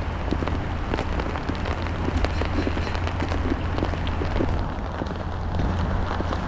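Rain mixed with snow falling, a steady patter with many small irregular drop ticks, over a low steady rumble.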